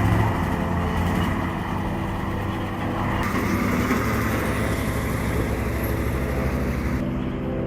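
Heavy six-wheel-drive logging truck's engine running steadily under load, a continuous low drone.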